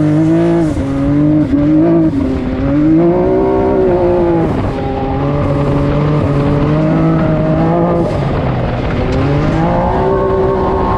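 Can-Am Maverick X3 side-by-side's turbocharged three-cylinder engine running under changing throttle, its pitch rising and falling repeatedly and climbing again near the end.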